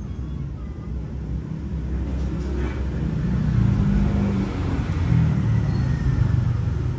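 A road vehicle's engine rumbling nearby, growing louder about three to four seconds in as it passes.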